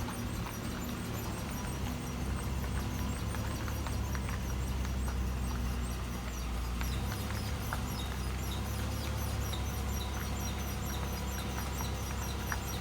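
Faint, rapid high-pitched squeaking, about four to five squeaks a second, over a steady low hum.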